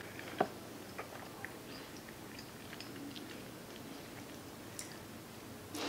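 A person chewing a mouthful of cheesy baked macaroni with their mouth closed, picked up close by the microphone: soft, wet mouth clicks, one sharper click about half a second in.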